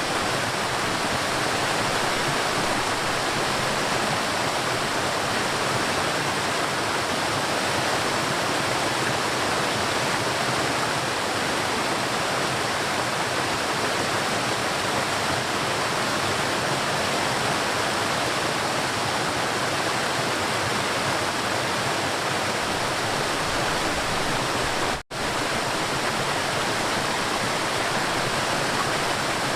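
River water flowing steadily, a continuous rushing. It cuts out for an instant about three-quarters of the way through.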